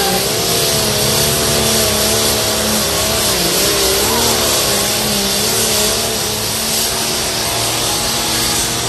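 Modified pulling tractor's engine at full throttle, loud and unbroken, hauling the weight sled down the track; its pitch wavers slightly up and down as it works against the load.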